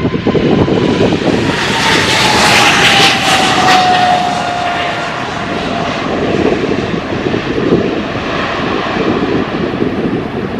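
Airliner engines during takeoff: a loud roar that peaks a couple of seconds in as the plane goes by, with an engine whine falling steadily in pitch as it passes. Wind rumbles on the microphone throughout.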